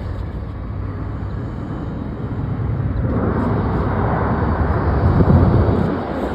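Jet airliner engine noise, a rushing sound that swells about halfway through, peaks near the end, then eases off as the aircraft passes.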